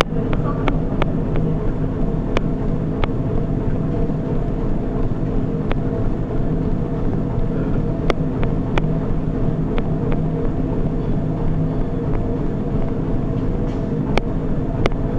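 Treadmill running steadily, a constant machine hum with several low tones, with scattered sharp clicks at uneven intervals.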